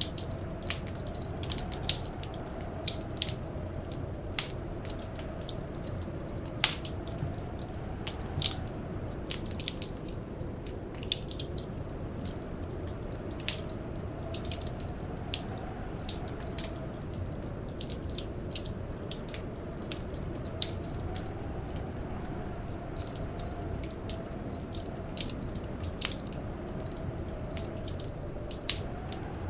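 Wood fire crackling, with irregular sharp pops and snaps several times a second over a steady low rumble. A faint howl of wind slowly rises and falls underneath.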